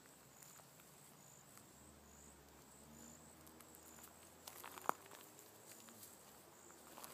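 Near silence in woodland, with faint high insect chirps repeating about once a second and a single sharp click about five seconds in.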